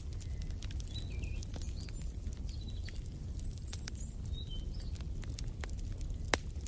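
Fireplace fire crackling over a low rumble of flames, with scattered sharp pops and one louder pop near the end. Small birds chirp in the background.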